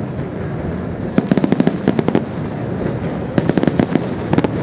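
Fireworks going off in two quick crackling volleys, many sharp reports in rapid succession, over a steady low rumble.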